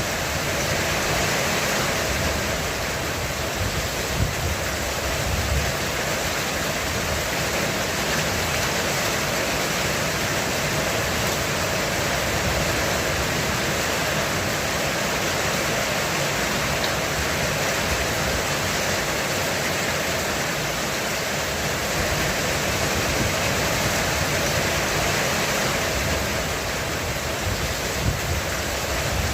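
Heavy rain pouring onto a roof, a steady dense hiss, with a low rumble of thunder underneath that swells a few seconds in.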